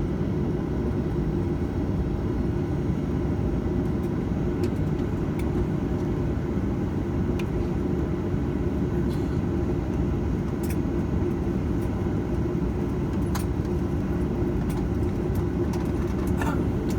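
Steady rumble and hum inside the cabin of a Boeing 737-900ER taxiing after landing, its CFM56-7B engines at idle together with the cabin air-conditioning, with a few faint clicks and rattles.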